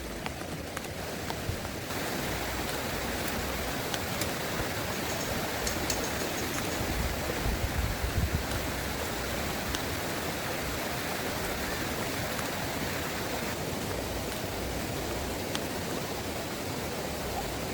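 Heavy rain falling steadily: a dense, even hiss with scattered sharp drop ticks, a little louder from about two seconds in.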